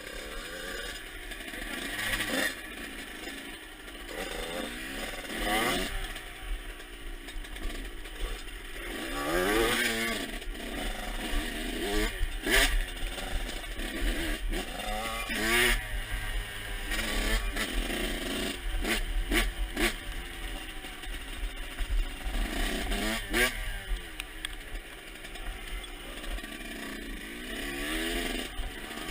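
Motocross dirt bike engine revving up and falling back again and again as the bike is ridden, its pitch climbing and dropping several times over, with short sharp clatters in between.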